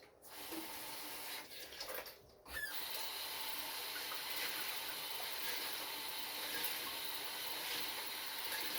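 Water tap turned on about two and a half seconds in, then running steadily into a sink, after a few faint handling sounds.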